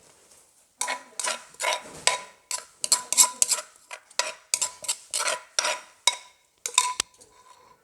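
A utensil scraping and knocking in a bowl or mortar, mixing a pounded spicy seafood salad, in a quick run of strokes about two to three a second that stops about a second before the end.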